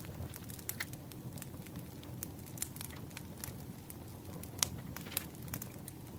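Campfire crackling: a steady low rumble with scattered pops and snaps, one sharper snap a little past halfway.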